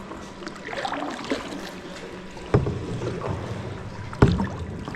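Kayak paddling with small splashes of the paddle in the water, and two sharp knocks about a second and a half apart, each ringing briefly.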